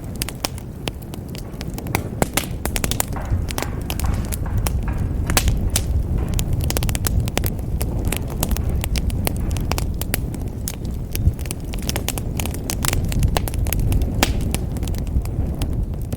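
Wood fire burning in a fireplace: a steady low rumble of flames under constant sharp crackles and pops, with a louder pop about eleven seconds in.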